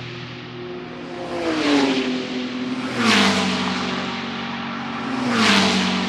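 GT3 race cars passing at speed, one after another: three loud pass-bys, each engine note dropping in pitch as the car goes by, with other engines droning further off.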